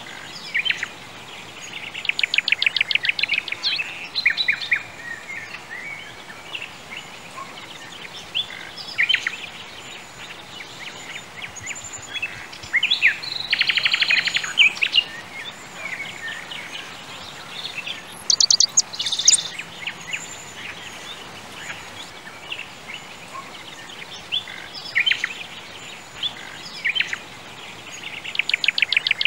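Songbirds chirping and singing, with a few fast trills standing out, over a steady background hiss.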